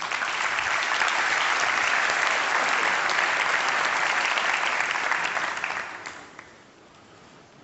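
Audience applauding: dense clapping that starts at once, holds steady for about six seconds, then dies away.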